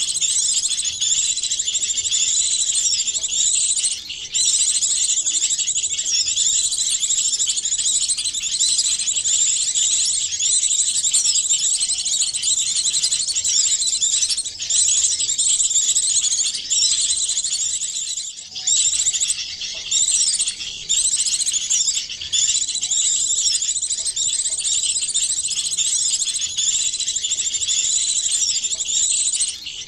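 Bird-lure recording of many small songbirds' calls layered together: a dense, continuous mass of high, quick chirps and trills, with a few brief breaks. It is a mixed small-bird chorus made to attract small birds.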